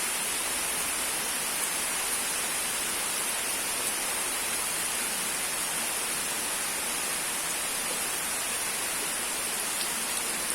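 Steady rainfall: an even, unbroken hiss of rain with a few faint drop ticks.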